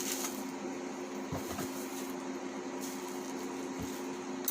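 A steady electric hum, with a few soft knocks from items being handled.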